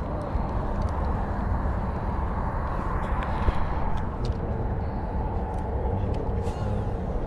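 Steady outdoor background noise, heaviest in the low range, with a few faint clicks.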